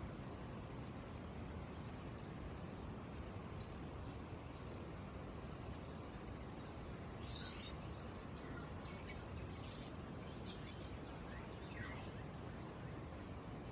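Many small caged birds chirping over a steady low background noise, with a dense high twittering throughout and a scattering of short downward-sweeping calls in the second half.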